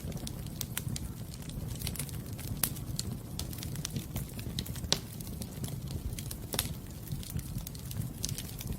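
Fire in a fireplace crackling: irregular sharp pops over a steady low rumble of the flames, the loudest pops about a third of the way in and around halfway.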